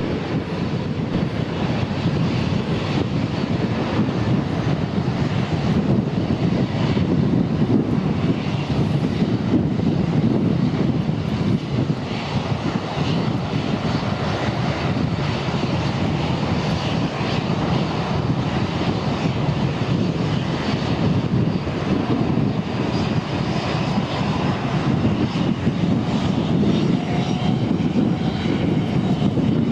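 McDonnell Douglas MD-90 jet airliner's engines running steadily at low power: an even low rumble with a faint whine above it.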